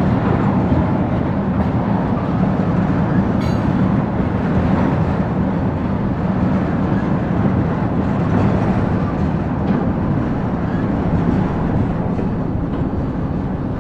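Loaded tank cars and a covered hopper of a freight oil train rolling past, a steady loud rumble of steel wheels on rail. A brief high-pitched metallic ring comes through about three and a half seconds in.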